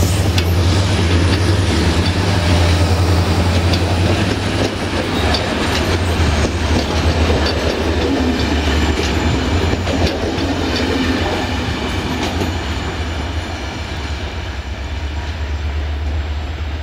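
Passenger coaches of a departing train rolling past and away, wheels clicking over the rail joints over a steady low hum. The sound fades slowly near the end as the train draws off.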